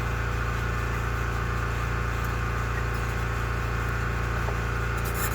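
Steady low mechanical hum, with several fixed low tones, running evenly throughout; a faint click or two near the end.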